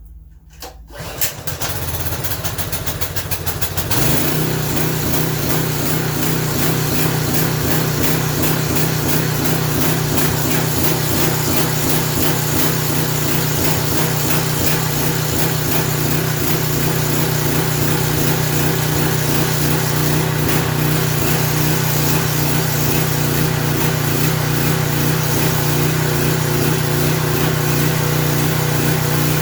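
Small single-cylinder four-stroke engine on a Craftsman pressure washer starting about a second in, catching and running steadily from about four seconds. The crankcase is badly overfilled with oil, and the engine is burning the excess oil along with the fuel.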